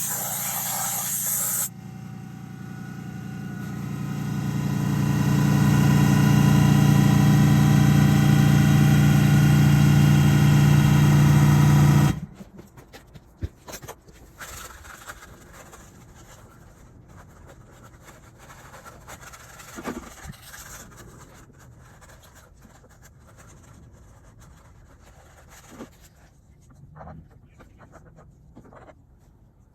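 A short blast of hiss, then a motor humming steadily at one pitch, swelling for a few seconds and holding loud until it cuts off suddenly about twelve seconds in. Faint clicks and knocks of handled parts follow.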